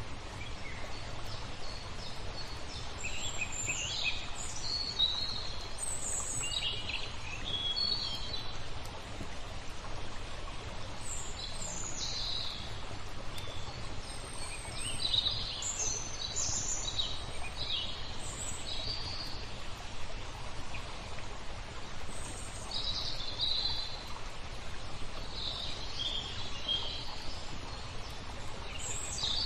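Small birds chirping and trilling again and again over a steady rush of flowing water.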